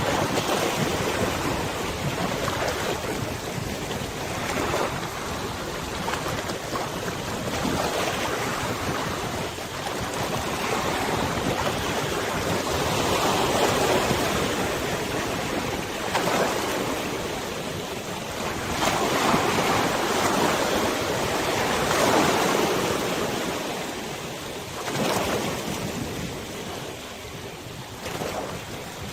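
River waves washing and lapping, swelling and easing every few seconds, with wind blowing across the microphone.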